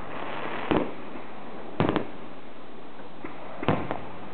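Small fireworks bursting close by: one sharp bang about a second in, a quick double bang just before two seconds, and another bang near the end, over a steady background hiss.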